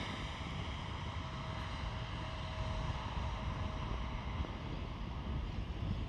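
Airliner engines at take-off: a steady low rumble and hiss, with wind noise on the microphone.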